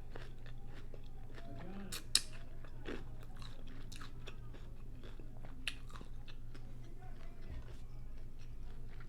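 Close-up chewing and biting of a chorizo taco boat: crunching shell, wet mouth clicks and smacks, with one sharper crunch about two seconds in.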